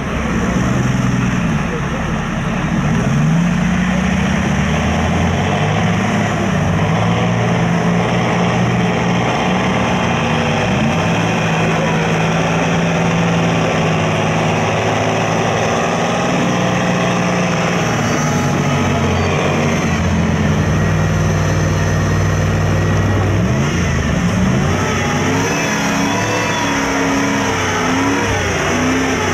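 Mud truck engine running hard at high revs, its pitch dipping and climbing again several times as the throttle is worked, with voices mixed in.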